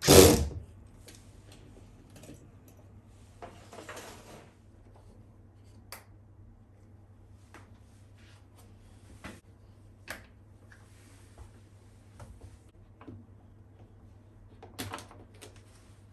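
Clicks and knocks of tools and parts being handled during washing-machine disassembly, opening with two loud knocks and followed by scattered small clicks and a brief rustle, over a faint steady low hum.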